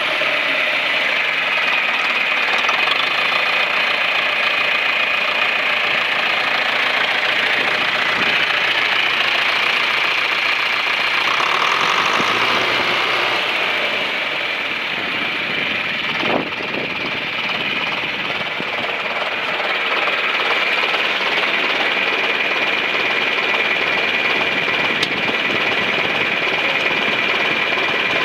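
John Deere 3020's four-cylinder diesel engine running steadily, with a slight drop in level and a single sharp click about sixteen seconds in.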